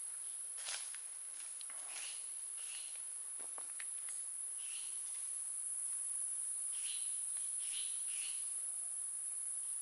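Steady high-pitched drone of forest insects, with a few faint short sounds scattered through it.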